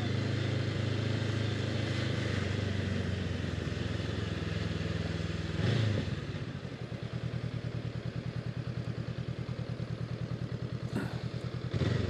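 Honda CB500X's parallel-twin engine running at low speed, then settling to an even, pulsing idle after a short clunk about halfway through. Another knock comes near the end.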